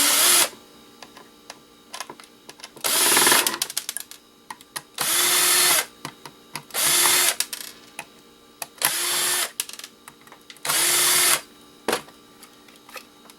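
Power drill-driver backing screws out of an RF converter's casing in about six short runs, each under a second and roughly two seconds apart, the motor's pitch dropping as it stops. Small clicks of handling between runs.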